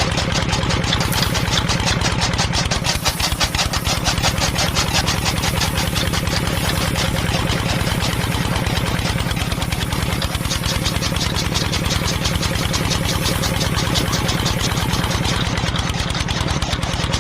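An engine running steadily with a fast, even chugging, unchanged throughout.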